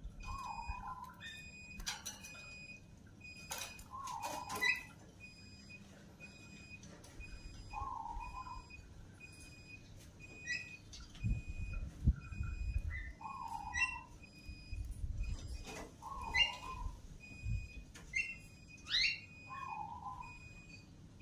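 Young lovebird calling: sharp rising chirps and a lower wavering note every few seconds, over a long string of short, evenly spaced high notes at one pitch.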